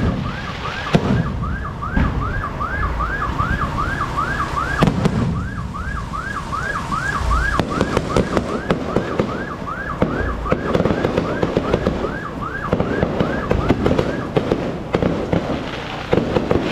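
Electronic siren in a fast yelp, sweeping up and down about three times a second, stopping briefly about five seconds in and cutting off about two-thirds of the way through. Fireworks pops and crowd noise run beneath it.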